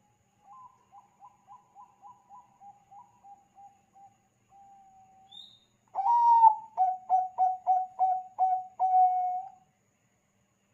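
Zebra dove (perkutut bangkok) song: a faint run of rapid staccato coos, then a loud phrase about halfway through of one opening note and around eight quick coos ending in a longer drawn-out coo.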